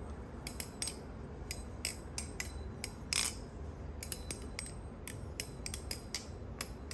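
Orca balisong trainer clone being flipped: a run of quick, irregular metallic clicks and clacks as the handles swing open and shut, with a short whoosh about three seconds in.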